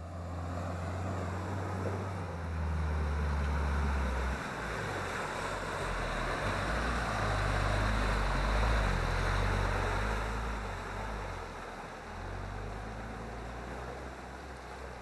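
Off-road 4x4 engine working hard under load through a deep rut, its pitch dropping about four seconds in, over a steady rushing noise of tyres through the ground that swells in the middle.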